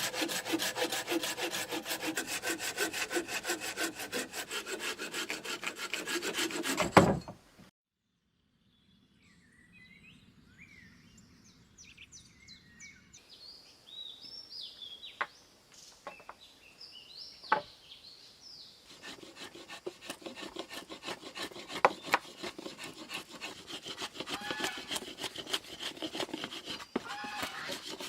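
Hand saw cutting wood in fast, even strokes, ending in a sharp knock about seven seconds in. Then a quieter stretch with birds chirping and a few knocks, and from about nineteen seconds the rhythmic sawing strokes start again.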